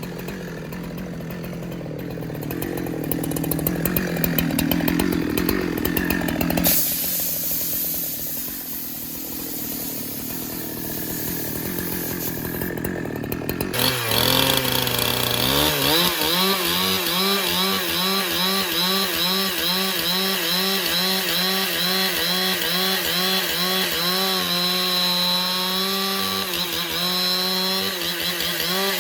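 Chainsaw engine running and cutting wood, its pitch rising and falling over and over in the second half as the load on the chain changes.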